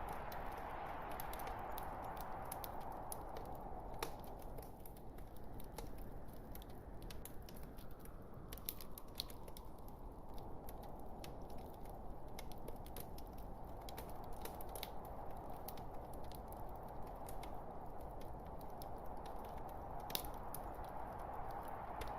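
Wood fire burning in a fireplace: a steady hiss and rush of flames with frequent small crackles and pops, a few sharper pops standing out, one about four seconds in and one near the end.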